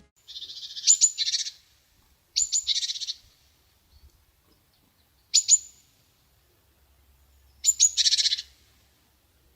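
Chickadee calling four times, each call a couple of sharp high notes followed by a string of buzzy, harsh 'dee' notes.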